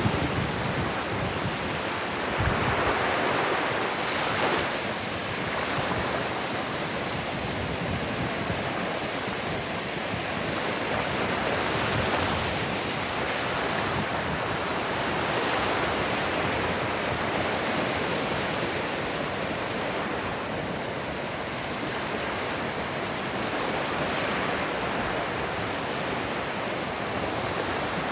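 Ocean surf washing onto a sandy beach: a steady rushing wash that swells and fades every several seconds as waves break.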